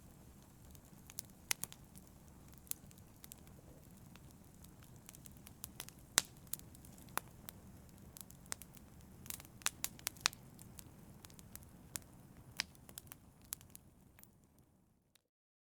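Wood fire burning in a fireplace, with irregular sharp crackles and pops over a low steady rumble of flame. It fades out to silence just before the end.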